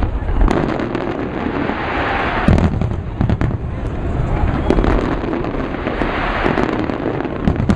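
Fireworks display going off in quick succession: repeated bangs and deeper booms over continuous crackling.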